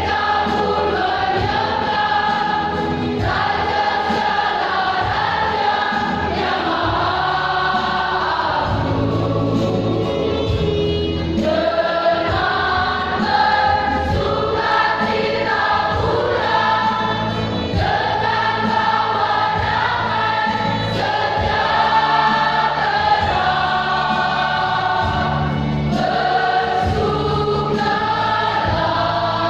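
Church choir singing a hymn in parts, with accompaniment.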